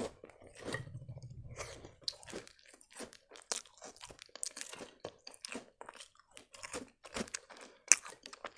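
Crunchy cookies being chewed with the mouth closed: a run of irregular crisp crunches and wet mouth sounds.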